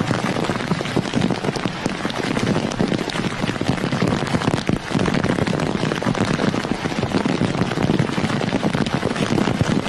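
Heavy storm rain hitting a hard surface, a dense steady crackle of drops.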